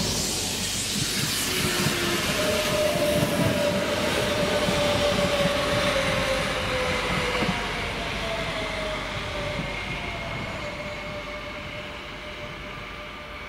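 A train passing close by. Its wheels knock rhythmically over the rail joints in the first few seconds, under a rushing noise and steady whining tones that dip slightly in pitch. The sound then fades steadily as the train moves away.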